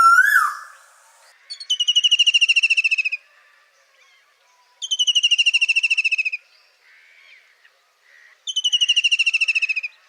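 A bird calling: a short rising whistled note at the start, then three rapid, slightly falling trills of about a second and a half each, repeated every three or four seconds, with softer calls between them.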